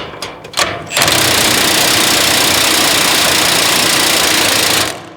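Impact wrench hammering on a headache-rack bolt for about four seconds, then stopping. A few short knocks come before it.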